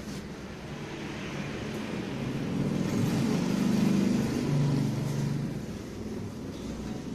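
A motor vehicle passing by, its engine growing louder to a peak midway and then fading.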